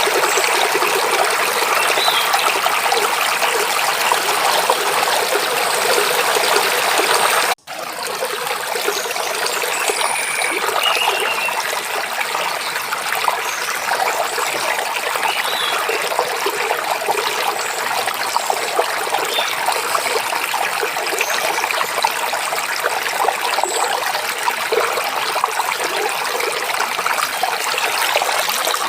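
Small stream running and babbling steadily over rocks, with a few faint bird chirps now and then. The water cuts out for an instant about seven and a half seconds in, then continues a little softer.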